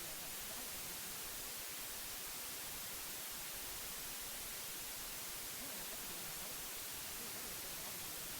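Steady white noise: an even hiss, strongest in the high range, with no change in level.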